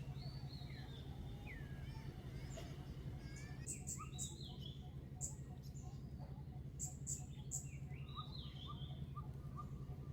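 Birds chirping: scattered short chirps and whistled notes, some rising and falling, with sharp high ticks clustered about four and seven seconds in, over a steady low hum.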